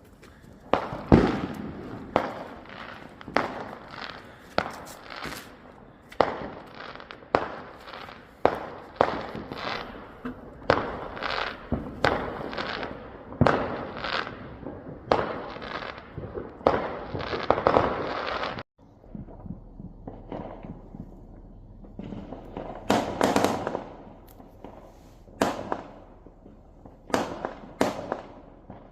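Fireworks exploding, sharp bangs going off about once a second in a dense run. Two-thirds of the way through, the bangs cut off suddenly. A quieter stretch follows with a few scattered bangs.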